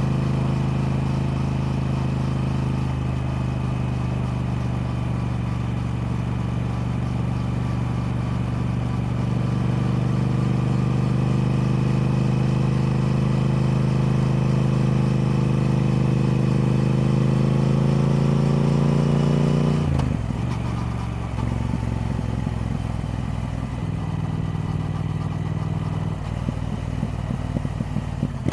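Triumph Speed Twin's parallel-twin engine running steadily, its pitch slowly rising as revs build. About twenty seconds in the engine note drops suddenly to a lower, rougher tone, with irregular crackling near the end.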